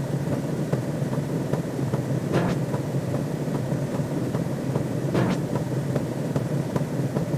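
Looping sci-fi sound effect: a steady low rumble with a brief hissing swoosh about every three seconds, about two and a half and five seconds in.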